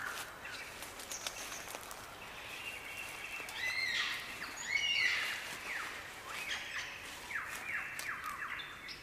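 Forest birdsong: birds calling with clear whistled notes, the loudest arching notes about halfway through and a run of quick downward-sweeping notes near the end.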